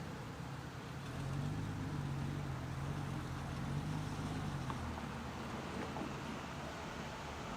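1978 Ford F150 pickup's engine running steadily. It gets somewhat louder about a second in and eases back after about five seconds.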